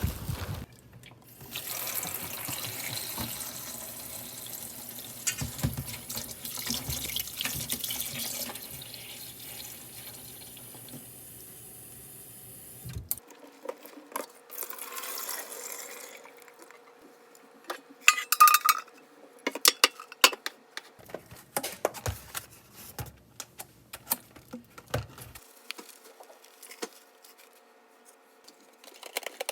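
Water running steadily from a tap and then shut off suddenly about halfway through, followed by scattered clinks and clatters of dishes, one of them ringing briefly.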